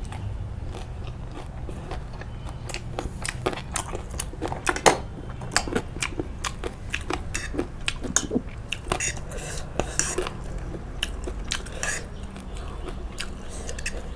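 Close-miked eating: biting and crunchy chewing mixed with sharp clicks of utensils against a plate, the loudest click about five seconds in.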